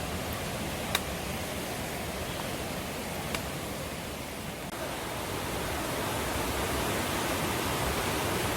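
Mountain stream water rushing steadily, with two short clicks about one and three and a half seconds in. It grows a little louder in the second half.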